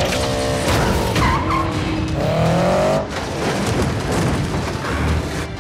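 Action-film car sound effects: car engines revving with a rising note twice and tyres squealing briefly, loud and dense.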